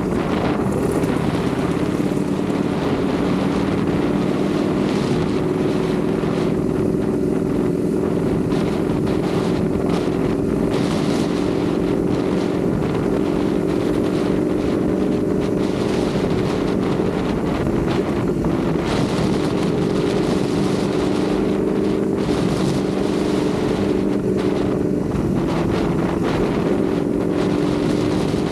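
Ducati Panigale V4 motorcycle's V4 engine running at a steady cruise, its pitch drifting slightly up and down, with wind rushing over the microphone.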